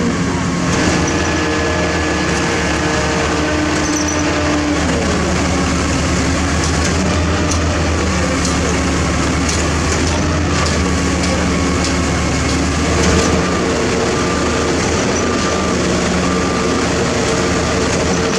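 Heavy diesel machinery engines running steadily, their pitch shifting about four seconds in and again near thirteen seconds. In the second half a faint short beep repeats about once a second, with scattered clanks.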